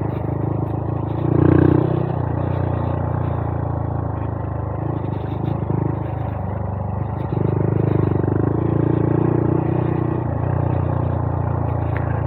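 Honda Monkey 125's single-cylinder four-stroke engine running as the bike is ridden along a trail, with louder spells under more throttle about a second and a half in and again from about seven to ten seconds.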